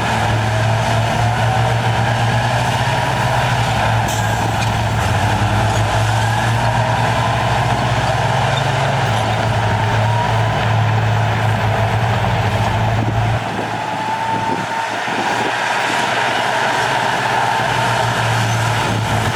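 Heavy diesel engine of earthmoving equipment running steadily under load, with a deep hum and a faint whine that slowly rises and falls in pitch. The low hum drops away about thirteen seconds in as the engine eases off.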